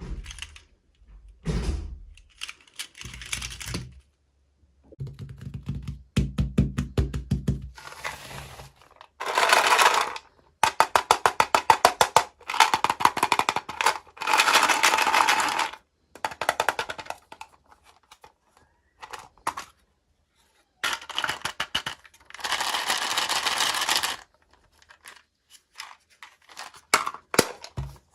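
Toy packaging being handled and opened by hand: plastic crinkling and rustling in several loud bursts, with knocks and clicks between them.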